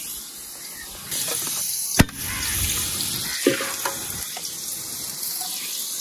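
Sliced onions sizzling in hot ghee in an aluminium degh over a wood fire, a steady hiss, with one sharp click about two seconds in.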